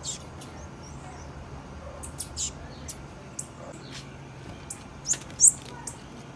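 Female blue-black grassquit (tiziu) giving short, high chirps at irregular intervals, the two loudest a little after five seconds in.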